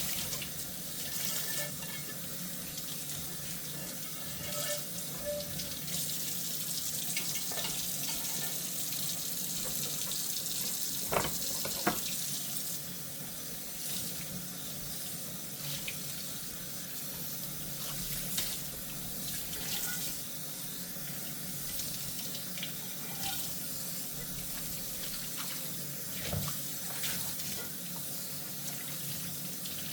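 Tap water running steadily into a kitchen sink while dishes are hand-washed, with scattered light clinks and knocks of dishes, two close together about eleven seconds in.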